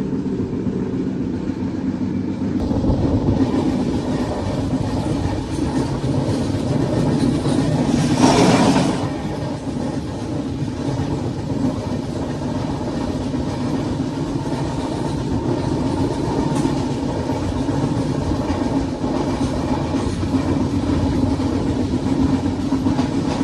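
Train running on the rails with a steady rumble and wheel clatter. A brief louder rush comes about a third of the way through.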